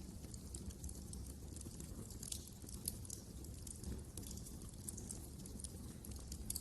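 Wood fire crackling in a fireplace: frequent, irregular sharp pops and snaps over a low, steady rumble of burning.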